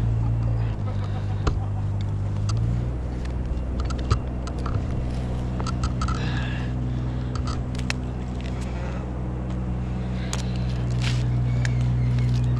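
A small engine idling steadily, dipping briefly in pitch and then settling back, with scattered light clicks and knocks over it.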